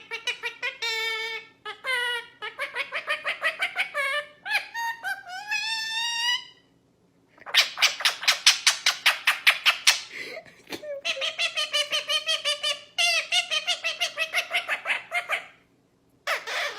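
Pet parrot vocalising in long runs of rapid pulsed, warbling notes, some rising in pitch, with a brief pause about halfway through.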